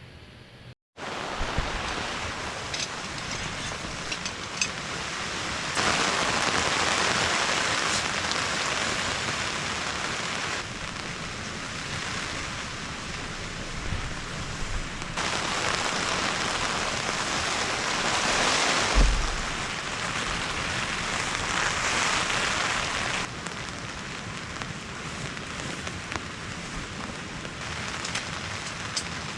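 Heavy typhoon rain falling steadily, swelling louder and easing off in waves, with a couple of low thumps partway through.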